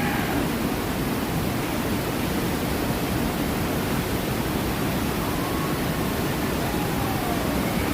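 Steady rush of falling and flowing water from the Grizzly River Run rapids and waterfalls.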